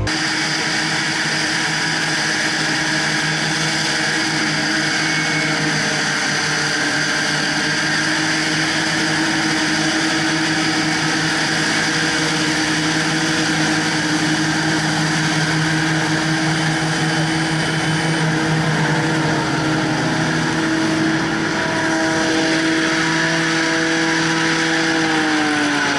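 Kubota tractor diesel engine running at steady revs, its pitch sinking as the revs fall in the last few seconds.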